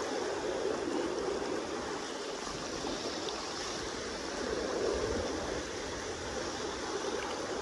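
Steady rush of the Kenai River's current flowing past the bank.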